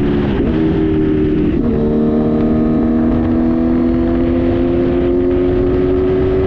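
Kawasaki Z900 inline-four engine with an Arrow exhaust under hard acceleration, its note dropping at two quick upshifts in the first couple of seconds, then climbing slowly and steadily as it pulls in a high gear toward top speed. A rough low rumble of wind runs underneath.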